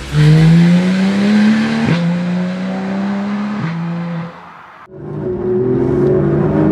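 Porsche 911 GT3 RS (991.1) flat-six on its stock exhaust accelerating hard, its note climbing through the revs with two quick upshifts about two seconds apart, then fading away. About five seconds in the engine comes back, closer and steadier.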